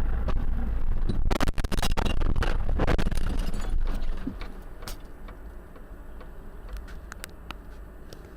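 Car collision: a run of crunching, cracking impacts with clattering debris for about two seconds, starting just over a second in, over the low rumble of the car's road noise. The rumble dies away about four seconds in, leaving scattered ticks.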